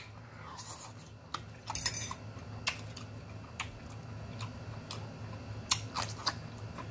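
Close-miked chewing of a mouthful of green beans, heard as scattered wet mouth clicks and smacks, with a bite into a pickled jalapeño near the end.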